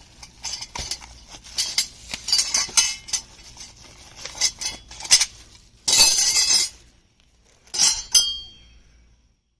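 Small metal tools and parts clinking and rattling as they are handled. There is a longer scraping burst about six seconds in, and a clink near the end that rings briefly.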